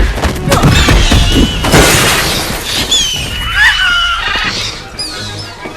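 Film fight sound effects over orchestral score: repeated crashing and shattering impacts, then shrill gliding creature cries around the middle.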